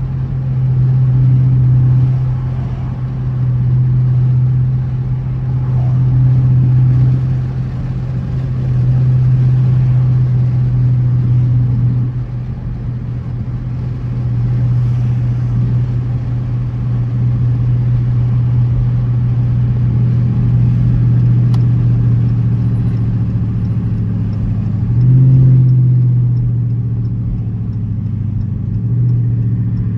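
Dodge Charger R/T's V8 engine droning steadily under way, swelling and easing every few seconds as the throttle comes on and off, with a stronger push about 25 seconds in.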